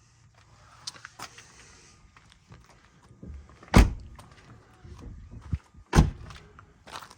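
Light clicks and handling noise, then two heavy, deep thumps about two seconds apart, like a car door being shut.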